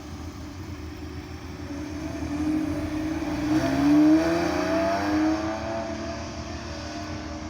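Porsche Carrera 4's flat-six engine pulling away and accelerating past, its note rising and loudest about four seconds in, then dropping back as it drives off.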